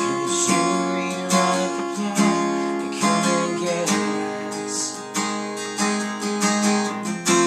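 Acoustic guitar strumming chords in a steady rhythm, with no singing over it.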